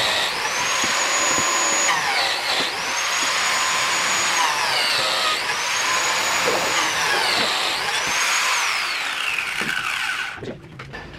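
Electric power tool triggered four times in a row, its motor whining up to full speed, running briefly, then winding down before the next pull. It stops near the end.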